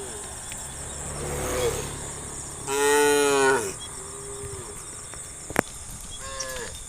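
Cattle mooing: several separate calls from the herd, the loudest a drawn-out moo lasting about a second, starting about three seconds in, with shorter, fainter moos around it. A single sharp click a little before the six-second mark.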